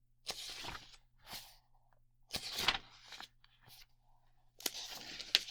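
Paper rustling in about five short bursts with a few crisp clicks: a paper file and its pages being handled and leafed through.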